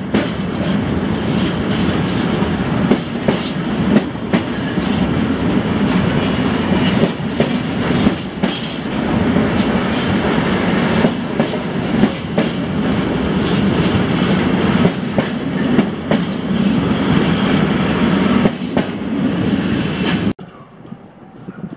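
Empty freight wagons rolling past at speed: a steady rumble with wheels clacking irregularly over rail joints. The sound cuts off suddenly near the end as the train's tail clears.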